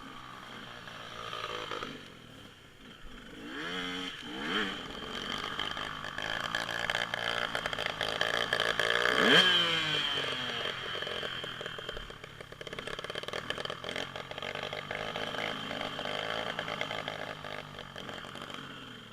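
Dirt bike engine revving up and down as the bike rides past, loudest and changing pitch sharply about nine seconds in.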